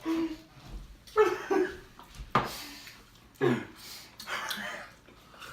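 Short, garbled vocal sounds and coughs from people with mouth-stretching retractors in, eating pie: bursts of unintelligible voice, with a sharper cough about two and a half seconds in.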